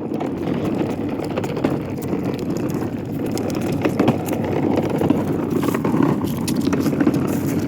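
A toddler's ride-on toy truck rolling along a sidewalk: a steady rumble of plastic wheels on pavement with small clicks and rattles.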